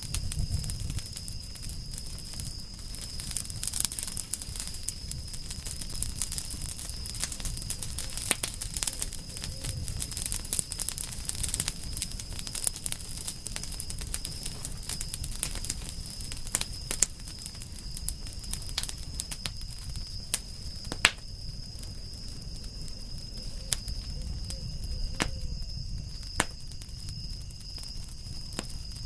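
Wood campfire burning: a steady low rumble under dense crackling, with sharp louder pops now and then, several of them in the second half. A thin steady high tone runs underneath.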